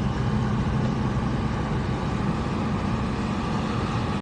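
A car's engine and road noise, a steady low hum.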